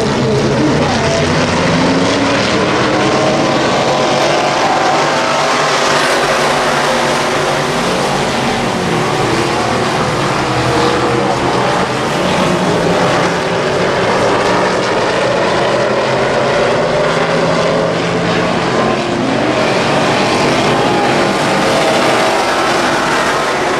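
Midwest Modified dirt-track race car engine running hard and loud, its pitch rising and falling as the throttle comes on and off.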